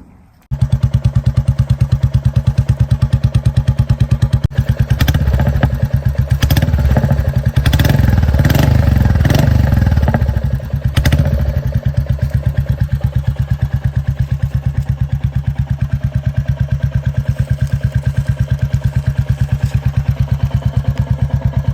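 Royal Enfield Bullet 350 single-cylinder engine running through an aftermarket exhaust, idling with an even, deep pulse. Its throttle is blipped repeatedly in the middle, with sharp pops at the exhaust, before it settles back to idle.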